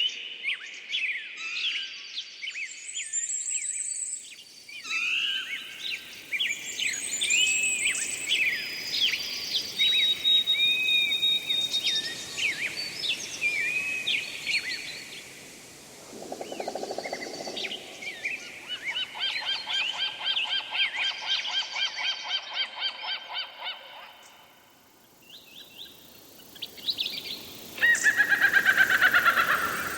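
Several wild birds singing and calling together: varied chirps and whistled phrases, a long run of rapid repeated notes in the middle, and a fast falling trill near the end.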